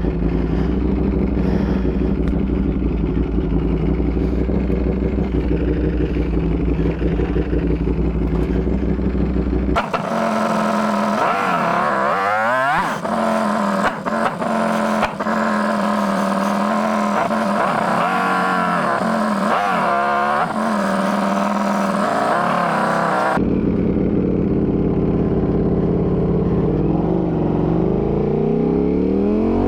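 Ducati V4 motorcycle engine running steadily at low revs, then repeatedly revving up and dropping back as the bike accelerates through the gears, with a rising pull again near the end.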